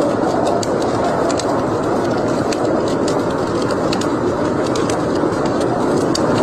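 Wood fire burning in a fireplace: scattered sharp crackles and pops over a steady rushing noise.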